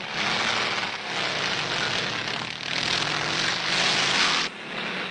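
Motorcycle engines running at speed as the riders pass, swelling and easing in loudness, then dropping off sharply about four and a half seconds in.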